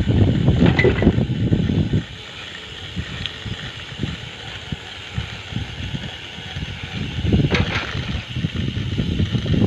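Wind buffeting the microphone while cycling, a heavy rumble that drops away suddenly about two seconds in and builds back up near the end. In the quieter middle stretch there are light scattered clicks and rattles from the moving bicycle.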